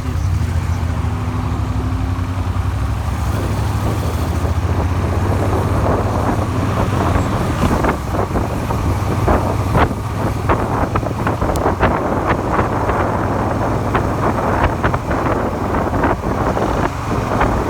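Suzuki SV400 V-twin engine running as the motorcycle is ridden, with wind rushing over the microphone and gusting harder from about six seconds in. The engine runs on a crankshaft crudely repaired with a file and is known to knock.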